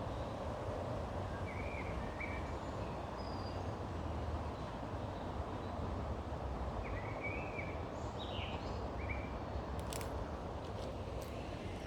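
Birds calling in short chirps, a couple of times early on and a cluster later, over a steady outdoor background hiss. A few sharp clicks come near the end.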